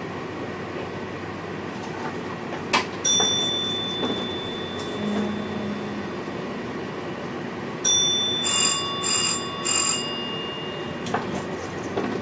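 Inside a VIRM electric double-deck train's driver cab, the train runs with a steady rumble. About three seconds in a click is followed by a ringing chime that fades slowly. Near eight seconds another chime sounds, then three quick rings: electronic alert tones in the cab.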